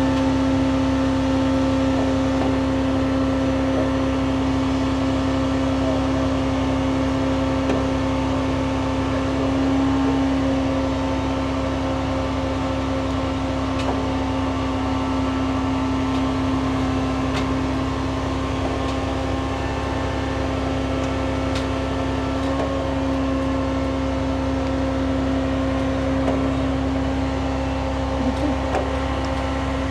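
Aerial ladder fire truck's engine and hydraulic pump running steadily while the ladder is being operated: a constant low hum with a steady whine.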